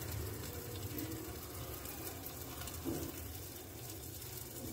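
Onions and green chillies sizzling faintly in a covered frying pan, muffled by the glass lid, over a steady low rumble. A brief faint sound comes about three seconds in.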